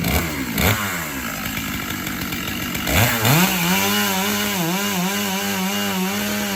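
Chainsaw engine dropping off the throttle, then revving up about three seconds in and held at high revs with small dips in pitch as it cuts into the tree.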